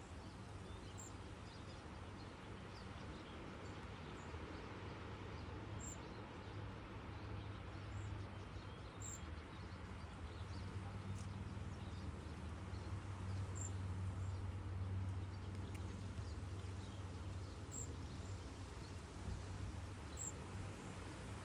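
Faint, very high, thin single notes of a cedar waxwing, about six of them spaced a few seconds apart, over a steady low background rumble.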